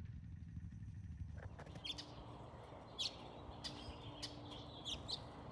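A series of short, sharp bird chirps, about half a dozen spread irregularly, starting about a second and a half in; before that a low rumble like wind on the microphone.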